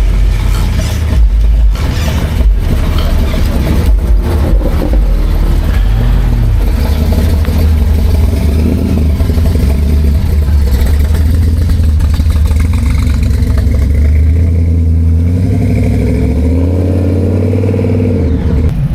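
A car engine running loud and close, with a few sharp knocks in the first few seconds; its pitch climbs as it revs near the end.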